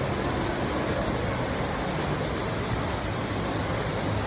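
Indoor waterfall about 15 metres tall, water falling in a steady, even rush.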